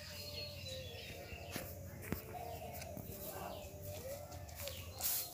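Birds chirping and calling, with short wavering lower-pitched calls, a few sharp clicks and a louder rustling noise about five seconds in.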